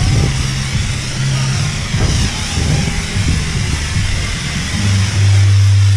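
Self-service car wash pressure wand spraying water onto a car, an even hiss over a low steady hum, which grows louder about five seconds in.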